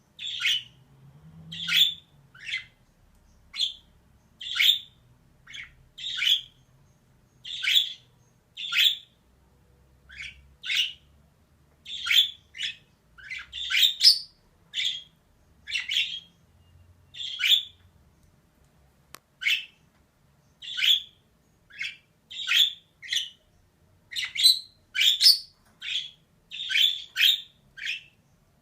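Female budgerigar calling in short chirps, roughly one a second, coming closer together in quick runs near the end.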